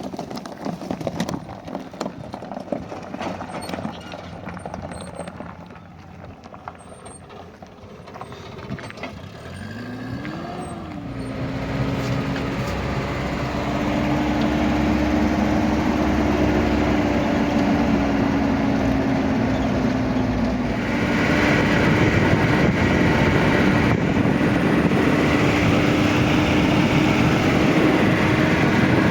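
Scattered knocks, then an engine starts about ten seconds in, its pitch sweeping quickly up as it catches and settling into a steady run. About twenty seconds in it gets louder.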